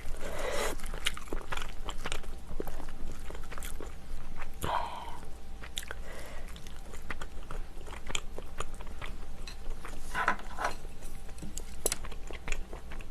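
Close-miked chewing and mouth sounds of a person eating: a run of wet smacks and small clicks, with a couple of brief louder sounds about five and ten seconds in.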